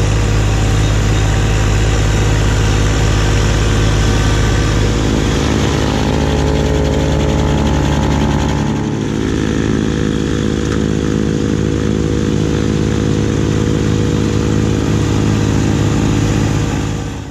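Kubota B2601 compact tractor's diesel engine running steadily with its B2782B front snowblower. The engine note shifts and drops slightly in loudness about halfway through, and the sound cuts off suddenly at the very end.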